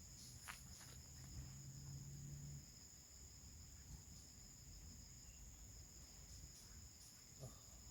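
Faint, steady high-pitched drone of insects in the forest. A faint low hum fades out about two and a half seconds in, and there are a few soft clicks.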